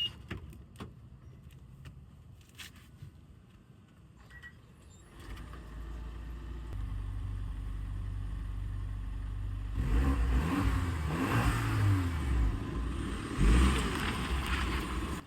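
A few light clicks, then about five seconds in a car engine comes on and runs steadily. From about ten seconds it is revved several times, its pitch rising and falling.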